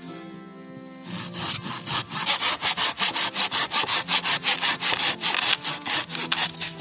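Hand saw cutting through wood in rapid, even back-and-forth strokes. It starts about a second in and stops shortly before the end.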